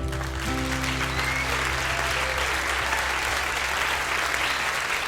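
Audience applauding at the end of a live song, while the band's last low notes ring on underneath and die away near the end.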